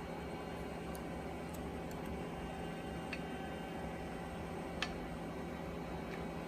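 A few faint, isolated clicks of small metal tools and parts being handled, over a steady room hum.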